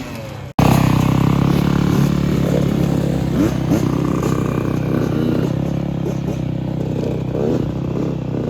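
Dirt bike engine running steadily at a constant idle-like pitch, starting abruptly about half a second in.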